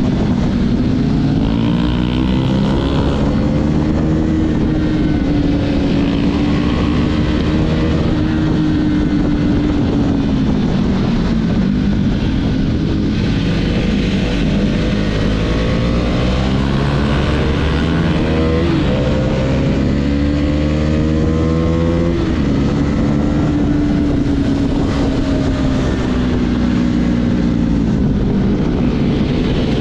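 Husqvarna Vitpilen single-cylinder motorcycle engine and exhaust under way, the revs rising and falling with the throttle. In the middle the revs climb steadily several times and drop abruptly, as with gear changes, over a constant low rumble.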